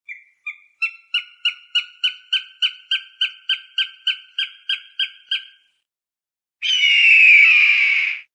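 Falcon calling: a fast series of about fifteen sharp, pitched kek notes at roughly three a second, then after a short pause one long harsh scream that falls in pitch.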